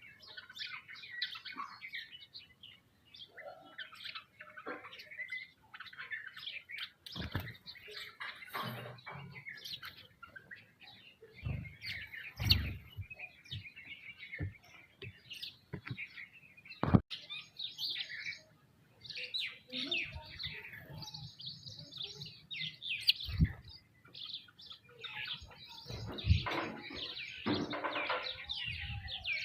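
A flock of sparrows and mynas chirping and calling busily, many short overlapping chirps. Scattered dull thumps sound among them, with one sharp click about halfway through.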